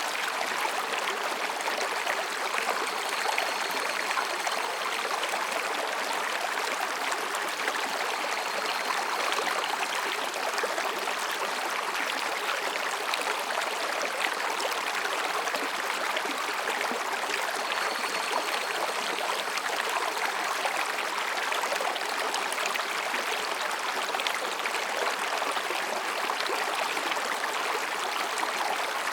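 Mountain stream running over and between rocks: a steady, dense rushing and babbling of water with no breaks. Faint high-pitched calls drift in a few times behind it.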